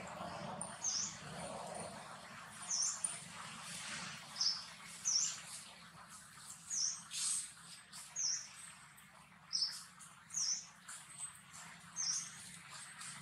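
A bird repeatedly giving short, high chirps, roughly one a second, over a faint low hum.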